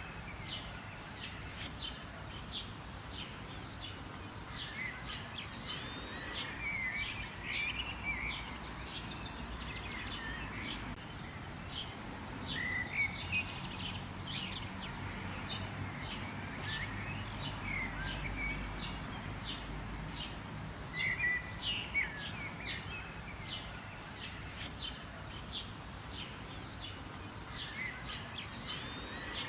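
Several songbirds chirping and calling, with many short, sharp chirps and some swooping calls, over a steady background hiss of outdoor ambience.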